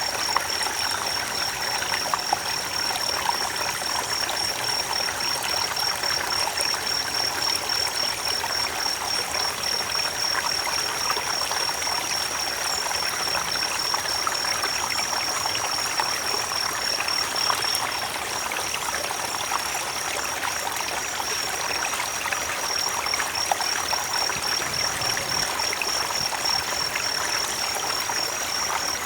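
Creek water flowing in a steady babbling rush. Above it, a steady, high-pitched, finely pulsing trill runs throughout.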